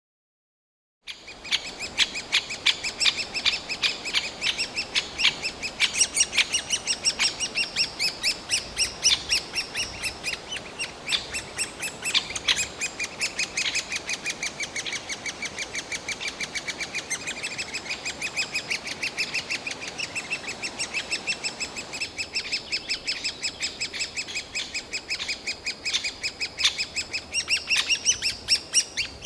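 Well-grown great spotted woodpecker nestlings shrieking nonstop, a rapid, unbroken string of short, high calls that starts about a second in. This is the chicks begging their parents for food, a day or two before they leave the nest.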